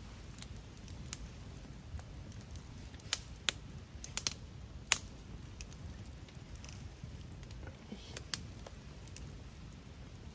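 A handful of sharp taps or clicks, most of them between one and five seconds in, over a steady low rumble.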